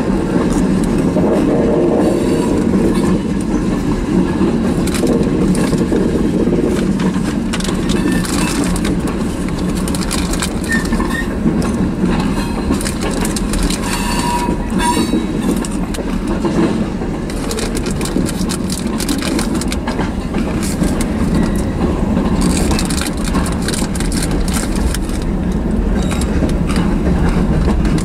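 Freight train tank cars rolling past close by: a steady, loud rumble of steel wheels on the rails with clicks and rattles from the cars. A short squeal is heard about halfway through.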